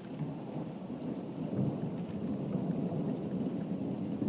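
Thunder rumbling low and long, swelling about a second and a half in, over steady rain.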